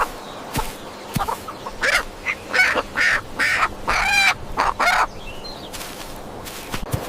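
Chicken clucking: a run of short calls in the middle, with one longer, wavering call about four seconds in.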